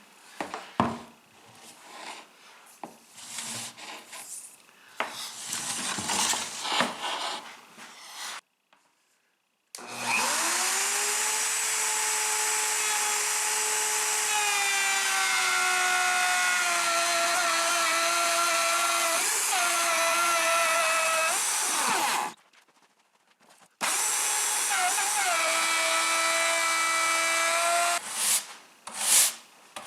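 A handheld router spins up about ten seconds in and runs steadily, its pitch sagging a little as the bit cuts a dado groove in oak; it stops, then starts and cuts again for a few seconds near the end. Before it starts there are clicks and knocks of the tool and workpiece being handled.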